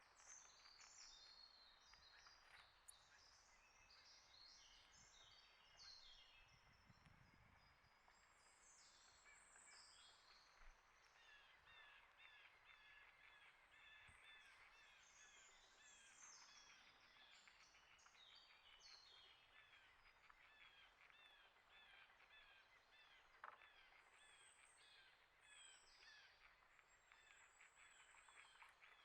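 Faint songbirds chirping and singing, with many high, overlapping calls and trills. A run of quick, repeated falling notes comes through in the middle.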